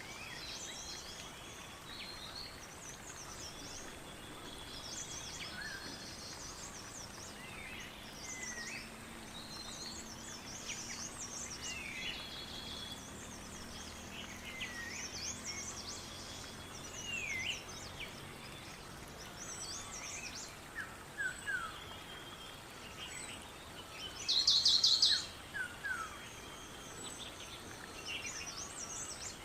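Several songbirds chirping and calling outdoors, with many short notes gliding up and down, over a faint steady high-pitched hum. About twenty-four seconds in, one louder buzzy call lasts about a second.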